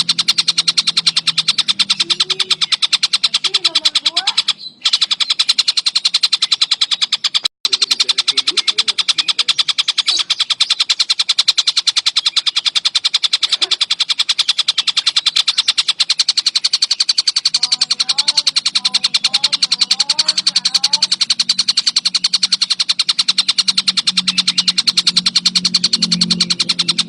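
Tengkek buto (Javan kingfisher) giving a fast, unbroken rattling trill, played as a looped song-training recording. It breaks off briefly twice, a few seconds in.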